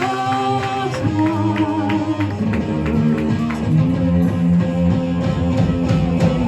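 Live rock band playing: guitar over bass and drums with a steady beat, ending on a loud final hit.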